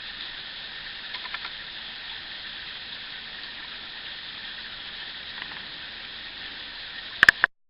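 Small rainforest stream and waterfall running steadily over rocks, an even rush of water. Two sharp clicks near the end.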